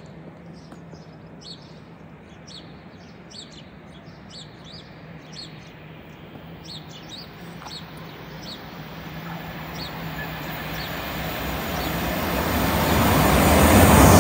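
Small birds chirping again and again over a steady low hum; from about nine seconds in, the noise of a GWR Class 387 Electrostar electric train approaching grows steadily and is loud near the end.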